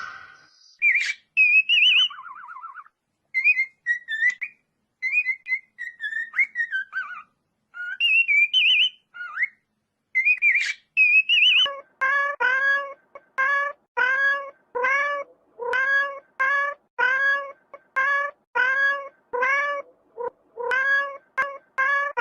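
Warbling, whistled chirps for about the first ten seconds, then a small animal's short, high cries repeated about twice a second.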